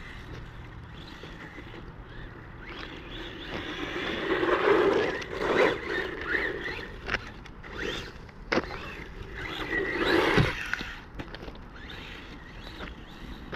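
Small battery-powered 1/18 scale RC truck driving over rough ground: its electric motor whine and the scraping rattle of tyres and chassis swell twice, with several sharp knocks in between as it bumps and lands.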